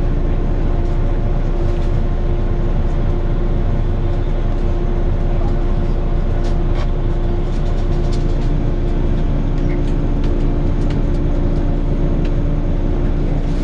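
Volvo B9TL double-decker bus running, heard from inside: a steady drone with a constant low hum and light interior rattles.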